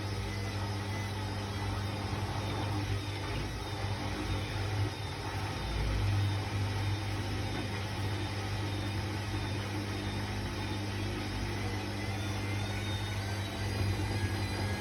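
Hoover washing machine running mid-cycle, its drum motor giving a steady hum with slight swells in loudness.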